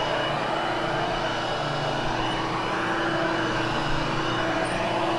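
Hoover Hushtone upright vacuum cleaner running steadily as it is worked over a freshly cleaned carpet to groom the pile, a constant motor drone with a steady hum.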